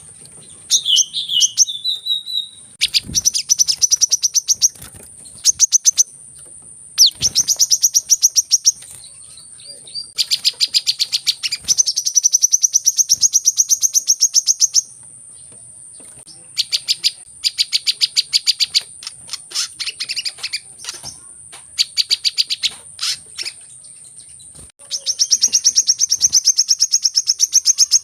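Sunbird calling in rapid trains of high, fast chirps, each burst lasting a second or few, separated by short pauses, over a steady high whine.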